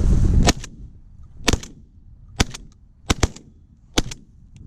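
A volley of about six shotgun shots fired at decoying pigeons, spaced under a second apart, with two in quick succession about three seconds in.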